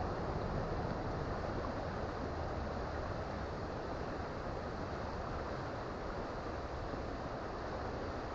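Creek water flowing over rocks: a steady rushing with no breaks.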